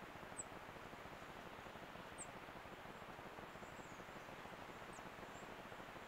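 Steady hiss from a trail camera's microphone in woodland, with a few faint, very high, short chirps from a small bird, spaced a second or two apart.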